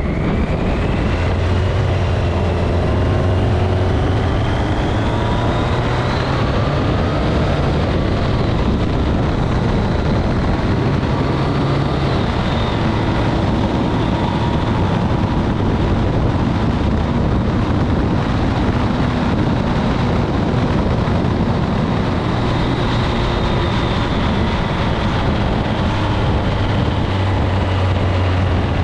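Motorcycle under way: the engine note climbs over the first several seconds as it accelerates, then holds steady under heavy wind rush.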